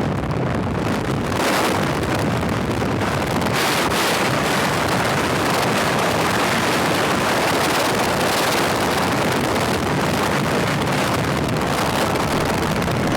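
Steady wind rush over the microphone of a moving motorcycle, with road and engine noise underneath.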